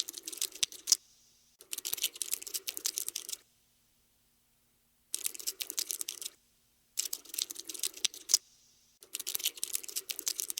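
Cockroach scuttling sound effect: dense, rapid dry scratchy clicking of little legs, in bursts of one to two seconds broken by short silences, about five bursts in all.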